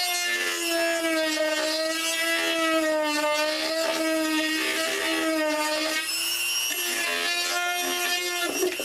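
A variable-speed rotary tool runs and grinds away material to open up a mounting hole, its motor whine wavering in pitch as it bites into the work. It eases off around six seconds in and then picks up again.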